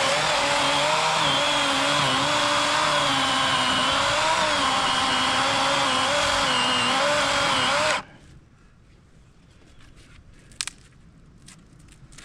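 Battery-powered 40-volt Worx chainsaw with an 18-inch bar cutting through a fallen log, its electric motor whine wavering in pitch as it labours through mostly dead wood with some live wood at the centre. It stops suddenly about two-thirds of the way through, leaving only a few faint clicks and a sharp tick.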